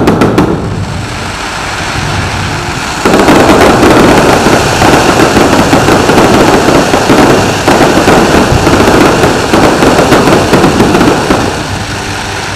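Aerial fireworks display: a few sharp bangs at the start, then from about three seconds in a dense barrage of rapid bangs and crackling, easing off near the end.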